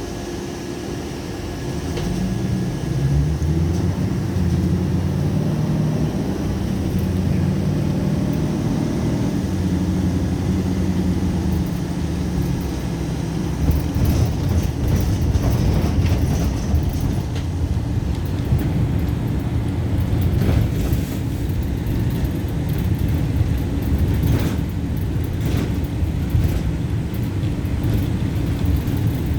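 Vehicle engine picks up about two seconds in and runs with a steady low drone, then gives way to rougher rolling rumble with a few sharp knocks and rattles.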